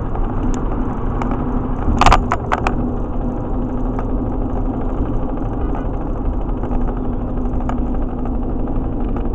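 Truck driving along with steady road and tyre drone from knobby tyres, a low steady hum under it. About two seconds in, a quick cluster of sharp rattling knocks.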